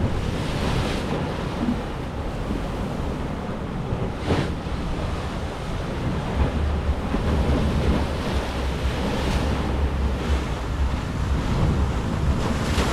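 Heavy surf: big waves crashing in, a continuous rushing with a deep rumble that swells about halfway through, and wind buffeting the microphone.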